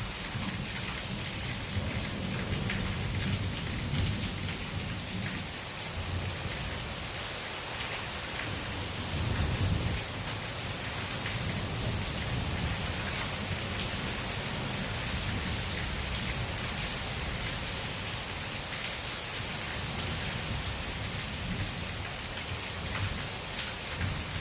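Heavy thunderstorm rain falling steadily as a dense hiss, under a low rolling rumble of thunder that swells about ten seconds in.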